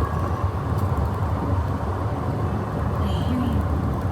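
Steady low rumble of a moving vehicle, like road and engine noise heard from inside a car.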